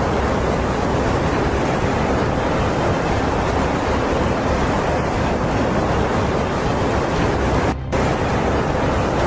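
Loud, steady rush of water, such as floodwater or heavy rain, with a brief cut-out near the end.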